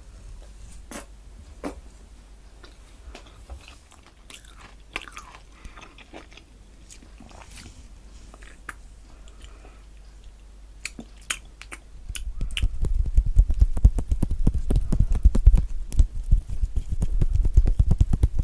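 Close-miked eating of orange and kiwi: soft wet chewing and scattered mouth clicks. About twelve seconds in, it gives way to a fast, loud run of low thumps.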